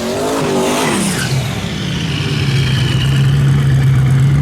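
Drag-racing vehicle's engine running loud: its pitch drops over about the first second, then holds a steady drone that slowly grows louder.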